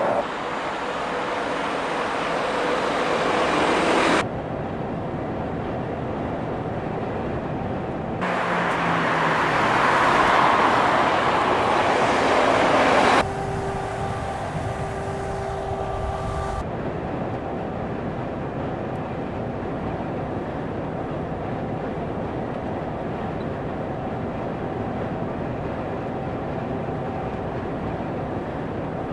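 Road vehicle driving noise, tyres and wind, in several abruptly cut segments. Twice it swells louder, as a vehicle closing in would, and then breaks off sharply. Between and after these it settles into a steadier running rumble.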